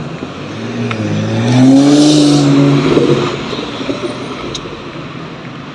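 A motor vehicle passing close by: its engine note swells, bends up and then down in pitch as it goes past, loudest about two seconds in, then fades into steady traffic noise.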